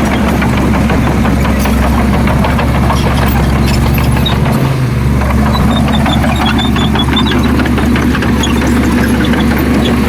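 Heavy diesel earthmoving machinery running steadily, a low engine drone with many scattered clanks and rattles over it.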